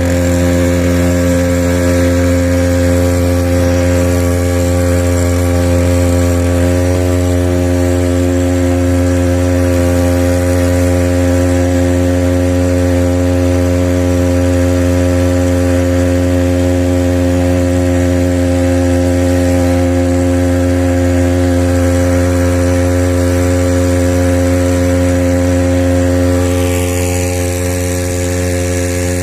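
Small 2-hp outboard motor running steadily at constant throttle, pushing a light catamaran. It eases off slightly, turning a little quieter and duller, about three seconds before the end.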